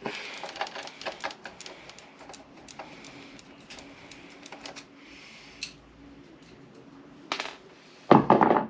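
Rapid small clicks and rattles of metal hand tools and small parts being handled on an RC car's chassis as a freed bolt is worked out. The clicks thin out after about five seconds, and a louder clatter comes near the end.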